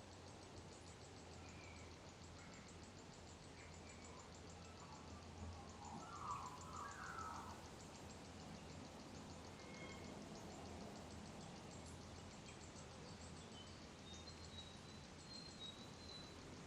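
Faint bush ambience: an insect's steady, fast pulsing chirr, with a short bird call about six seconds in and a few thin high chirps near the end.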